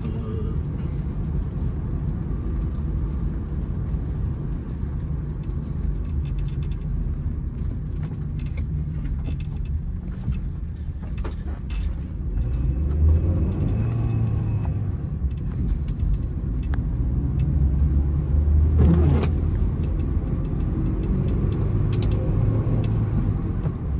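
Honda City car driving, a steady low rumble of engine and road noise, with a few light clicks and a brief rise and fall in pitch near the end.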